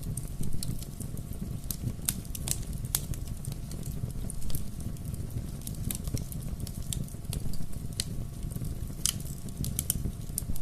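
Bonfire burning: a steady low rumble of flames with irregular sharp crackles and pops of burning wood.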